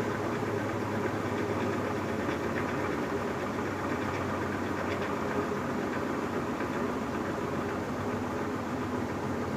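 Electrolux LBU15 top-load washing machine running with a steady, even mechanical hum and whir.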